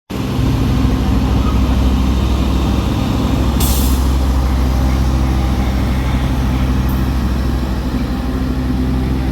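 Railway locomotive engine running steadily with a low, even drone, with a short hiss of released air about three and a half seconds in and a fainter one near seven seconds.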